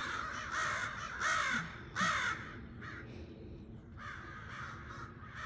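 A flock of crows cawing, many harsh caws overlapping, the loudest two about one and two seconds in, with a short lull near the middle before the cawing picks up again.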